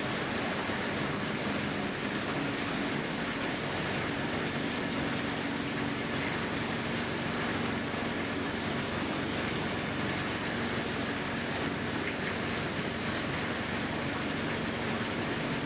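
Steady rushing background noise with a faint low hum, unchanging throughout, with no distinct calls or knocks standing out.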